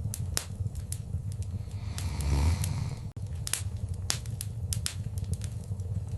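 Wood fire crackling in a fireplace: irregular sharp pops and snaps over a low, steady rumble of flames, with a brief swell of the flames about two seconds in.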